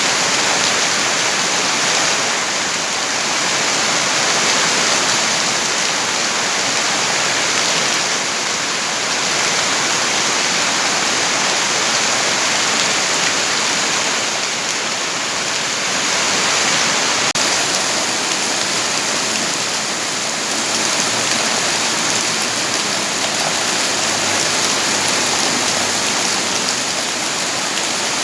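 Steady heavy rain, a dense even hiss that swells and eases slightly every few seconds.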